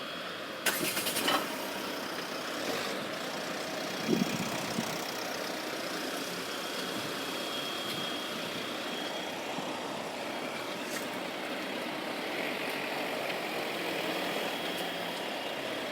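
Steady mechanical running noise, like an engine, with a brief rapid clatter about a second in.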